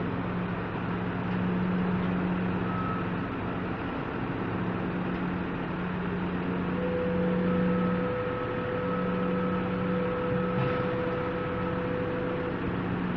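Steady drone of heavy machinery running during the unloading of a boat from a container ship, with a constant low hum. A higher steady whine joins about halfway through and stops shortly before the end.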